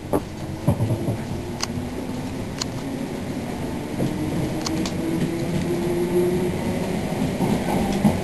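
Inside an electric passenger train pulling away from a station: steady running noise with the motor whine rising in pitch as it gathers speed, and a few sharp clicks.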